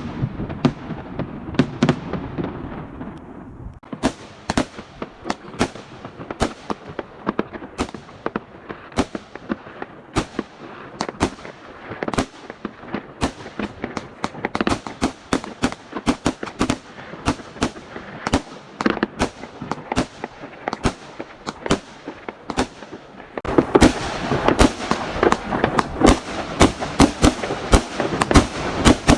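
Fireworks and firecrackers going off in rapid, irregular succession: many sharp bangs and crackling pops, several a second, with a low rumble in the first few seconds. About three-quarters of the way through the barrage becomes abruptly louder and denser.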